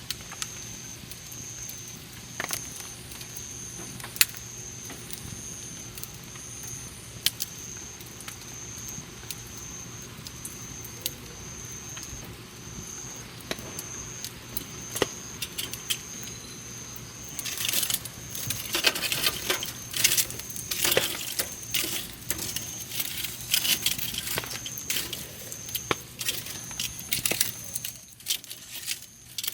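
Wood campfire crackling, with scattered single pops at first and then a dense run of crackling and snapping from just past halfway. A high, even chirping tone pulses about once a second throughout.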